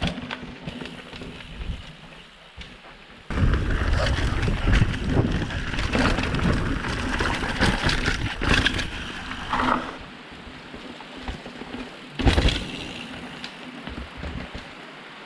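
Mountain bike riding down a rough dirt trail, its tyres and frame rattling and knocking. It gets suddenly much louder about three seconds in and eases off near ten seconds, with one sharp knock about twelve seconds in.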